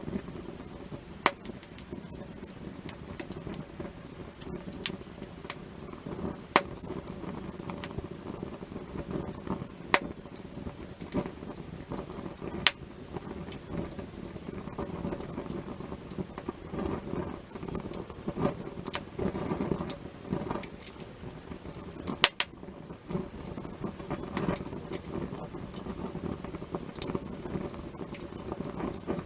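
Wood fire burning, a steady rush of flame with continual crackling and a handful of sharp, louder pops.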